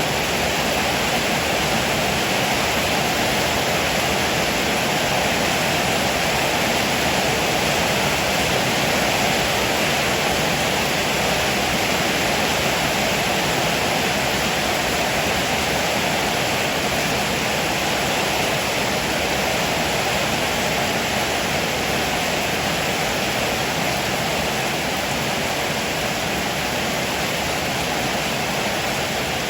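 Heavy rain pouring down steadily, an even hiss without let-up.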